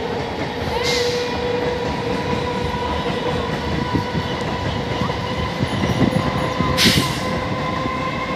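Electric multiple-unit local train running past: a steady rumble of wheels on rail with a constant hum, and two short hisses, one about a second in and one near the end.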